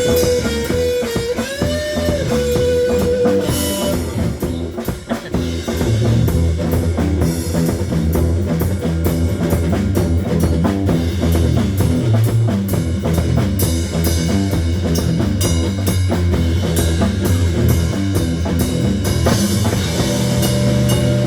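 Live rock band playing: drum kit, guitar and bass together, with a sustained guitar note bent up and down in pitch in the first few seconds.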